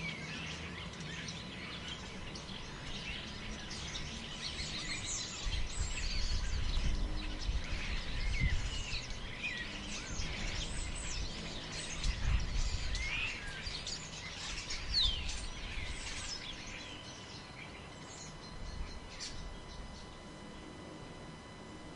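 Forest ambience: many small birds chirping and whistling in quick rising and falling calls, with wind gusting low and rumbling about a quarter of the way in and again past the middle.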